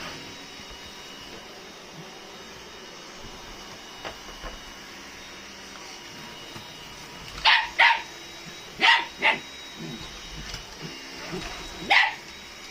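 A dog barking at a running Dyson vacuum cleaner. Under the vacuum's steady hum with a faint whine, the dog gives five sharp barks: two quick pairs a little after halfway and one more near the end.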